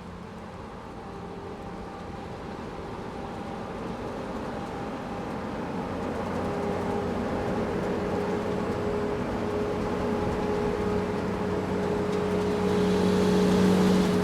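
An engine running with a steady hum, growing gradually louder throughout.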